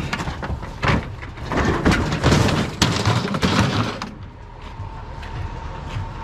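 Scrap being unloaded by hand: a run of knocks and clatters as items are handled and dropped over the first four seconds, then quieter with a faint steady tone.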